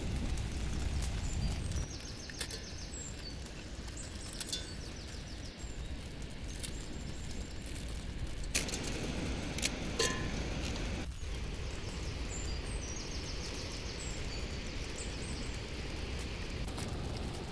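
Steady outdoor background noise with small birds chirping now and then, and a few sharp cracks around the middle. A low rumble drops away about two seconds in.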